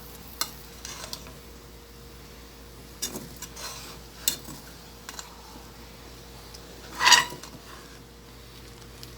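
A cooking spoon knocking and scraping against a pot of rice as it is stirred: a few separate clinks, then one louder clatter about seven seconds in.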